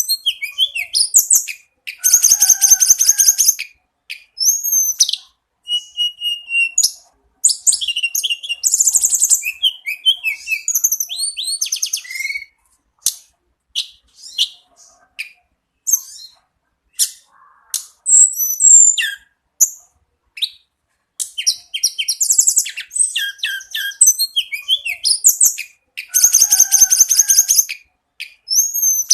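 A tledekan gunung songbird singing loudly in rapid, varied phrases of about one to two seconds each, separated by short pauses. The phrases mix fast high trills, buzzy rattles and short whistled slurs.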